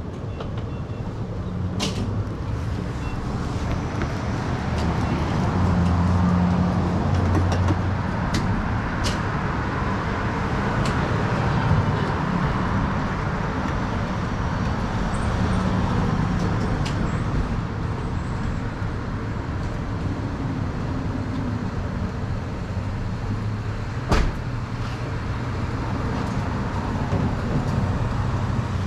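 A motor vehicle engine running steadily amid traffic noise. It is a little louder for a couple of seconds early on, with a few sharp clicks and a distinct knock late on.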